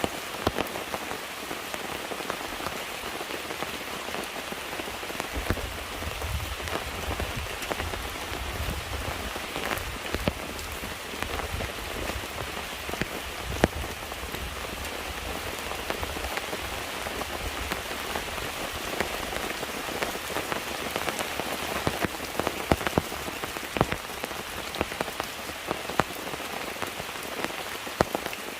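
Steady rain falling, with many single drops striking close by. A low rumble sits underneath for about ten seconds, starting about five seconds in.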